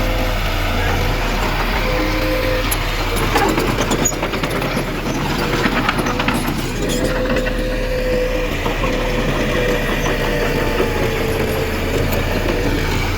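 Heavy diesel earthmoving machinery running steadily with a constant whine. A run of clanks and knocks comes in the middle.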